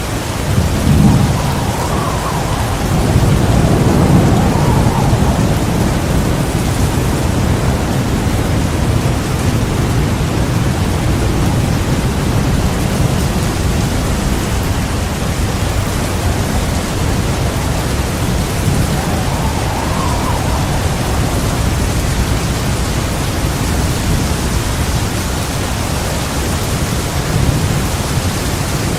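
Heavy rain falling steadily in a thunderstorm, with a low rumble of thunder swelling about a second in and rolling on to about five seconds, and a fainter rumble around twenty seconds.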